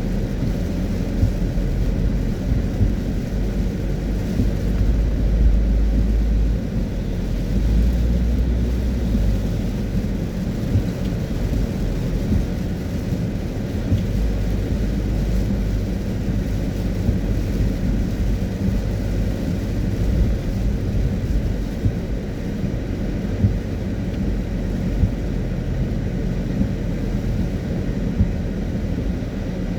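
Car driving on a wet road in the rain: a steady low rumble of road and engine noise, swelling a little deeper about a quarter of the way in.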